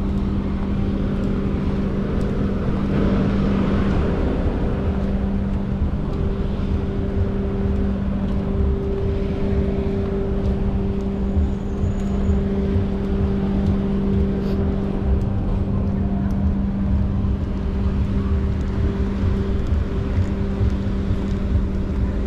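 A steady low mechanical hum at one constant pitch, like an engine or motor running, over an uneven low rumble.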